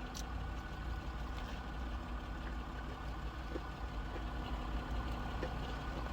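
Steady low hum of an idling engine, with a faint click near the start.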